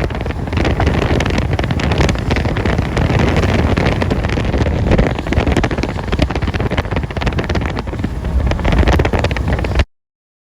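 Strong wind buffeting the microphone: a loud, rumbling rush that cuts off abruptly near the end.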